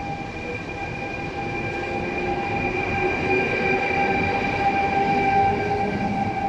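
Passenger train pulling into the station, its brakes squealing in several steady high tones over the rumble of the wheels, growing louder as it comes in.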